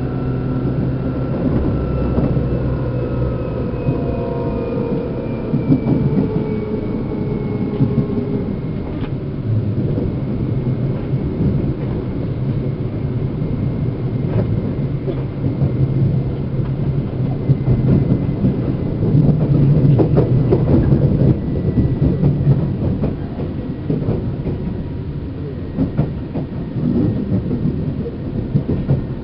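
Running sound inside the motor car of a Seibu New 2000 series electric train: steady underfloor rumble with scattered rail-joint clicks. A whine from the drive falls in pitch over the first several seconds as the train's speed changes, then settles into a thin steady tone.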